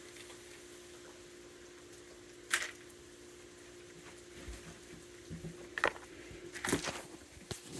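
Raccoons eating treats: a few sharp clicks and crunches over a low steady hum.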